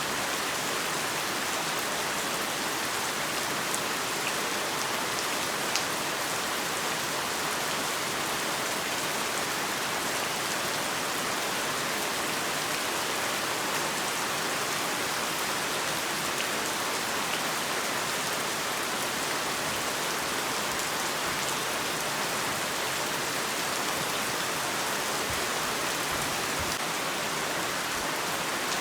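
Heavy rain falling steadily, an even hiss of rain on a surface with a few sharper drop ticks.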